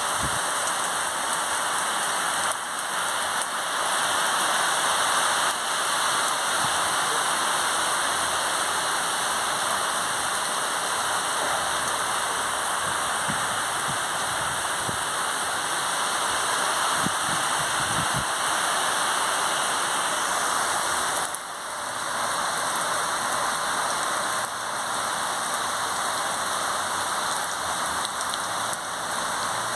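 Steady rain falling, an even hiss with a few faint drips and knocks of water on surfaces.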